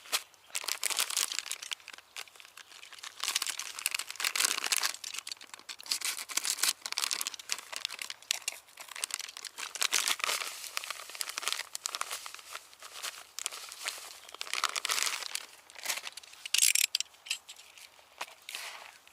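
Plastic packet of dry fishing groundbait crinkling and rustling in irregular bursts as the groundbait is emptied into the mix.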